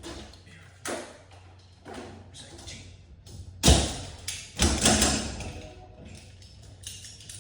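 A series of irregular knocks and thumps, the heaviest about three and a half seconds in, with another cluster around five seconds.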